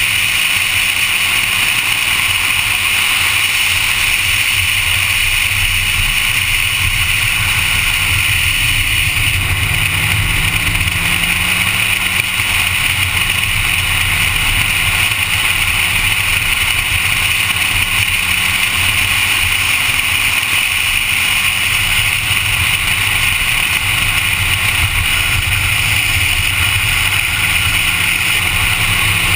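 Honda Civic engine running at speed on track laps: a loud, steady drone mixed with road and wind noise, its pitch rising and falling slightly through the middle.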